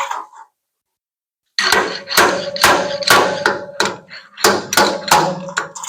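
Hammer knocks on the steel sheet metal of a pickup bed during dent repair. One knock at the start, a short gap, then a quick run of about eight sharp strikes, roughly two a second, as the dent is worked out.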